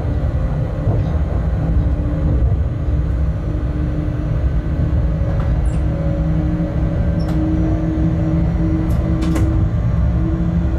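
Inside the cab of a Bombardier TRAXX BR 186 electric locomotive under way: a steady low rumble from the running gear, with a humming whine from the traction equipment that slowly steps upward in pitch. A few sharp clicks come in the second half.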